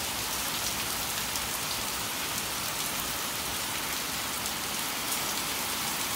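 Heavy rain falling steadily and splashing on wet pavement.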